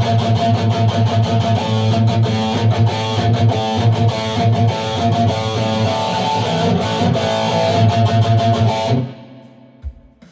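Electric guitar picked with a plectrum, a fast, dense run of notes that stops abruptly about nine seconds in. A low thump follows just before the end.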